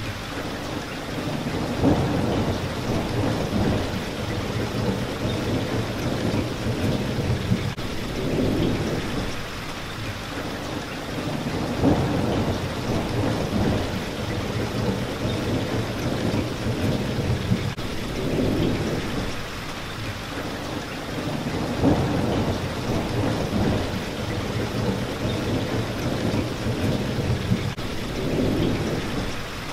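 Steady rain hitting a window, with low rolls of thunder that swell and fade every few seconds.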